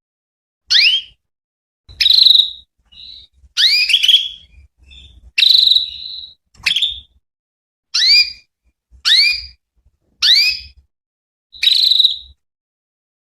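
Female canary calling: a series of about ten short, rising chirps, roughly one a second, with a few fainter calls in between.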